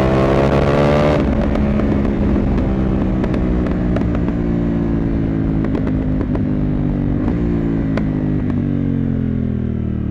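CFmoto 800MT's parallel-twin engine and exhaust under way: the note rises under acceleration for about the first second, then the rushing upper noise cuts off suddenly and the engine holds a steady note, which slowly drops in pitch as the bike slows toward the end. Scattered light clicks run through it.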